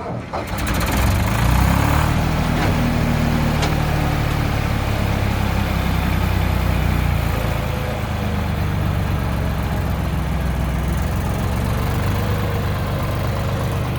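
An engine running, picking up about a second in and then running steadily with a deep, even note.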